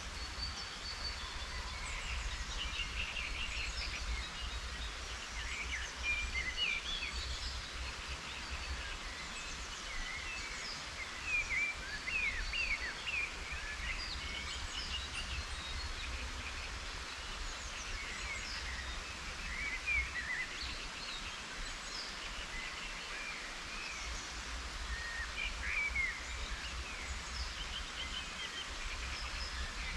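Wild songbirds chirping and singing in short, quick phrases scattered throughout, over a steady outdoor hiss and a low rumble.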